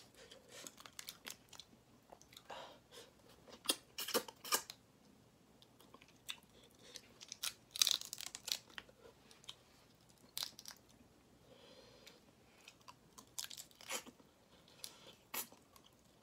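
Close-miked eating of spicy mala crayfish: shells cracking and crunching between the teeth and the meat being chewed, in an irregular string of sharp crunches, loudest about eight seconds in.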